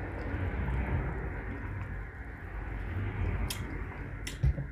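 A person chewing food close to the microphone, low and muffled, with two short clicks and a soft thump near the end.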